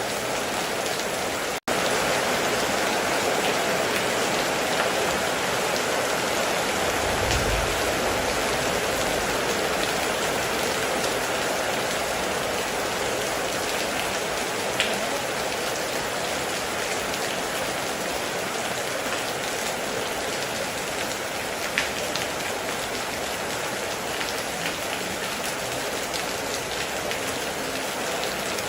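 Heavy rain falling steadily, with a few sharp drips standing out. A brief low rumble comes about seven seconds in, and the sound drops out for an instant near the start.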